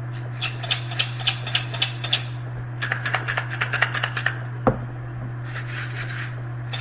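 Metal kitchen utensils tapped against each other in quick runs of light clinks, first about four a second, then faster, with one duller knock partway through.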